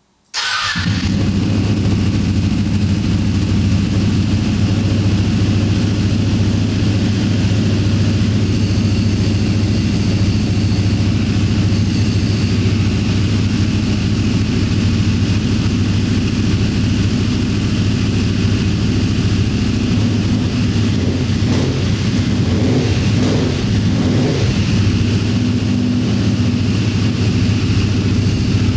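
Ducati 955 cc Superquadro V-twin with an Akrapovič race exhaust firing up a split second in and then running steadily and loud. Under it is the light rattle of a newly fitted STM open dry clutch; the rattle is quiet because the clutch is new and unworn.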